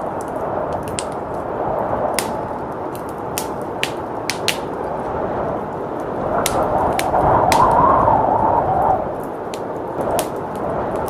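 Wood fire crackling with scattered sharp pops over a steady rush of blizzard wind. The wind swells in a gust from about six and a half to nine seconds in, then eases back.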